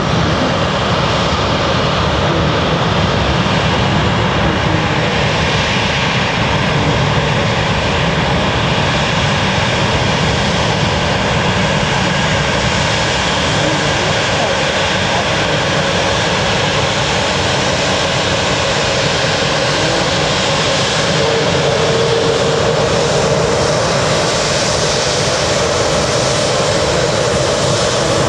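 Jet airliner engines running loud and steady, with little change in level.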